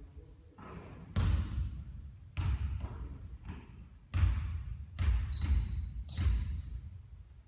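Basketball bouncing on a court, about six or seven thumping bounces at uneven intervals.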